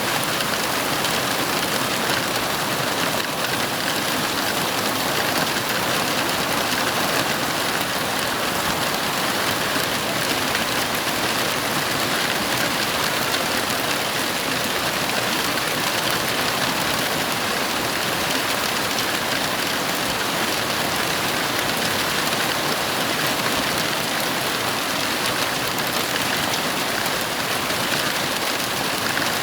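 Heavy rain falling steadily, a dense, even hiss with no breaks or thunderclaps.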